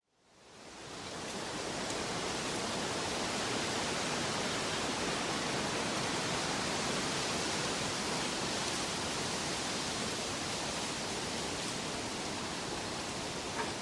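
Steady, even rushing noise that fades in from silence over about the first second, with no rhythm or pitch.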